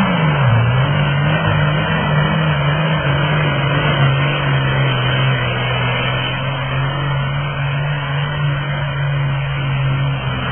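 Pulling tractor's engine running loud and steady. Its pitch drops sharply at the start, comes back up slightly, then holds level.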